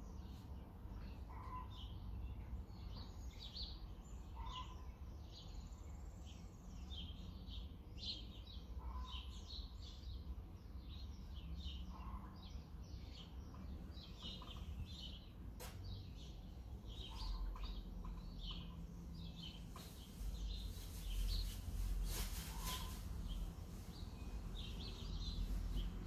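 Several songbirds chirping and singing over a steady low outdoor rumble, one of them repeating a short lower call every few seconds. A louder stretch of hissy noise comes about twenty seconds in.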